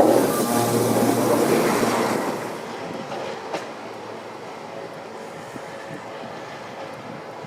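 Passenger train going past on the rails. The wheel and rail noise is loud for about two seconds, then falls away to a lower, steady rumble as the train moves off, with a single sharp click partway through.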